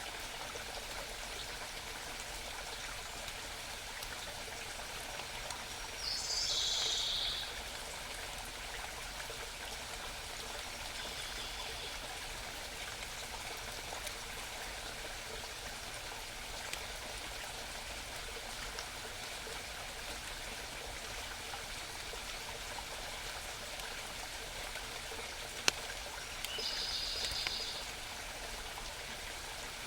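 A small mountain brook burbling steadily. A songbird sings a short high phrase about six seconds in, and again near the end.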